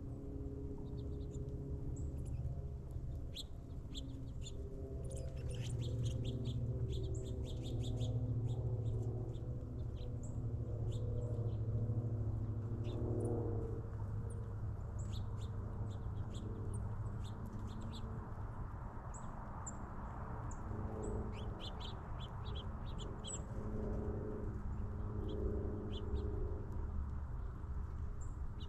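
Small birds chirping and calling: many short, high chirps scattered throughout, thickest in the first third and again near the end, over a steady low rumble.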